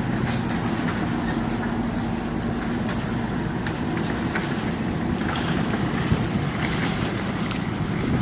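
Strong wind buffeting the microphone over a steady low rumble, with a faint engine hum for a couple of seconds early on.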